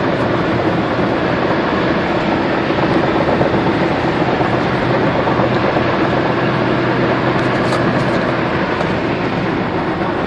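Toyota Innova's 2.5-litre diesel engine running at high road speed, its pitch holding steady, under a steady rush of tyre and road noise. A few faint clicks or rattles come about seven to eight seconds in.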